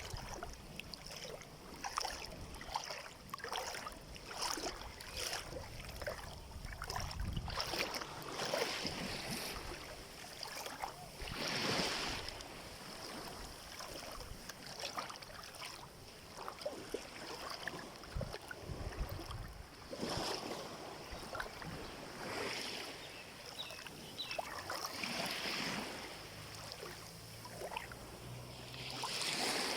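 Shallow seawater at a beach: small waves washing and lapping, with many brief splashes and a few louder wash-ups.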